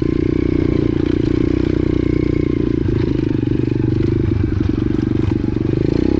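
A 125cc pit bike's single-cylinder four-stroke engine runs loud and steady at an even pitch, with a few brief rattles about two-thirds of the way in.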